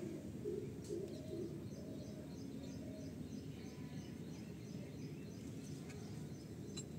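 Quiet outdoor background noise with distant birds calling: three short low calls about half a second in, then repeated faint high chirps.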